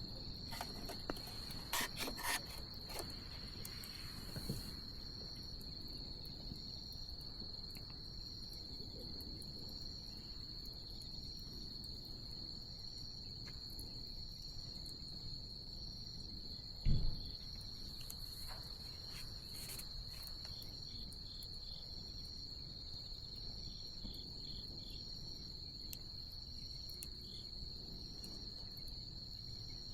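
Night insects trilling in one steady high note, with the bonfire's wood crackling in a few sharp pops during the first three seconds. A single low thump about seventeen seconds in, likely a log shifting in the fire.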